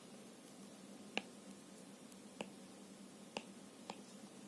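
Four sharp little clicks, roughly one a second and unevenly spaced, over faint room noise.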